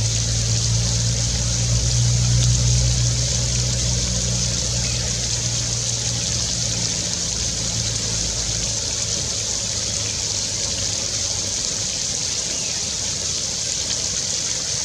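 Steady rush of flowing stream water, with a low engine hum that is strongest in the first few seconds and fades away past the middle.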